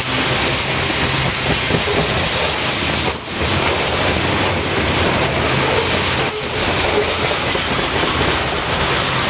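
Loaded covered hopper cars of a freight train rolling past close by: a steady, loud noise of steel wheels on rail, easing briefly about three seconds in and again about six seconds in.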